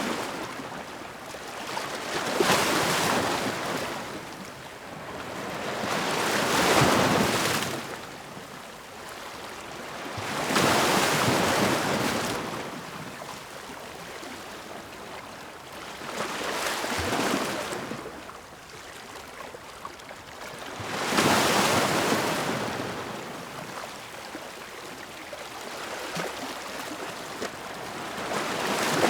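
Ocean waves breaking and washing in, about six surges of surf, each swelling and fading over a couple of seconds.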